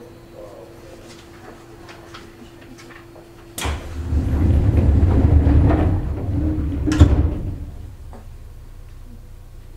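Inside a Seibu New 2000 series commuter train car: over a quiet steady hum, a loud rumbling rush starts suddenly about three and a half seconds in and lasts about four seconds. A sharp bang comes near its end, then it fades back to the hum.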